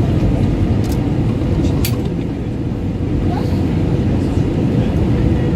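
Cabin noise inside an Airbus A320-232 during its landing: a steady low rumble of the IAE V2500 engines and rushing air through the fuselage, with two brief clicks about one and two seconds in.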